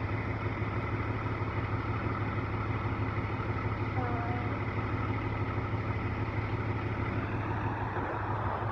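A vehicle engine idling with a steady low hum, with a faint voice briefly about four seconds in.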